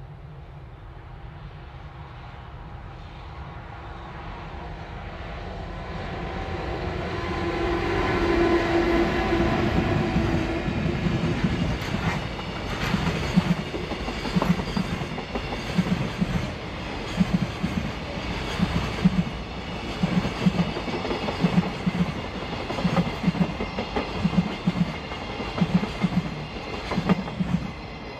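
JR Freight Class EF210 electric locomotives hauling a container freight train past. The sound grows as the locomotives approach and go by, then the container wagons' wheels click over rail joints in double beats about once a second.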